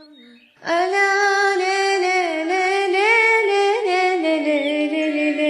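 A woman singing a Yemeni malala folk chant, taking a breath-pause and then holding one long, ornamented note on "ala" with wavering, sliding pitch. The voice is unaccompanied.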